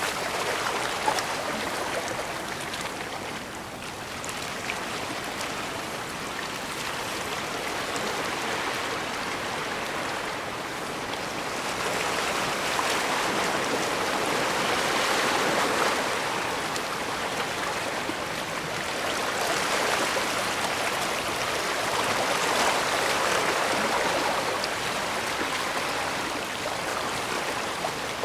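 Small waves washing along the shore in a steady rushing of water. It swells louder and eases off in slow surges every several seconds.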